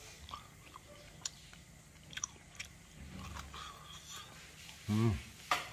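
A person biting and chewing boiled glutinous corn on the cob, with many small wet clicks and crunches from the kernels. Near the end there is a brief vocal sound and a sharp click.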